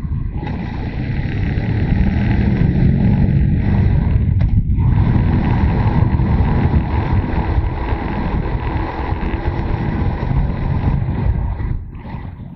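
Motorcycle on the move: wind rushing over the microphone, mixed with the engine's steady running. The sound dips briefly about four and a half seconds in and eases off near the end.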